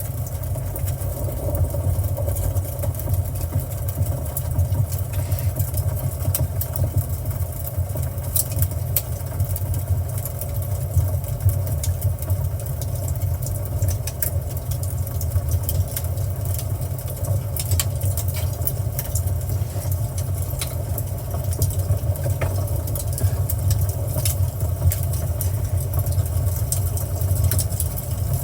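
Nature-sound soundscape from the car's infotainment system playing through the cabin speakers, scattered with light crackles, over a steady low hum like an idling engine.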